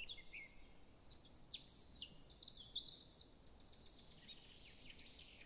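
Faint birds chirping and calling: many short high chirps and quick falling notes, busiest in the first three seconds and sparser after, over a light background hiss.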